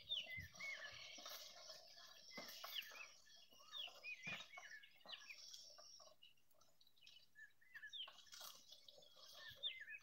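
Faint bird chirps: many short calls that rise and fall in pitch, repeated on and off.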